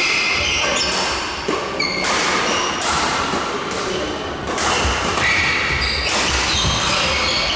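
Badminton play on an indoor court: sharp racket hits on the shuttlecock and short squeaks of shoes on the court floor, with voices in the background.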